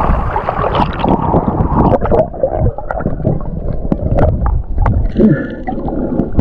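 Seawater sloshing and splashing right at the microphone during snorkeling, with many short splashes and knocks.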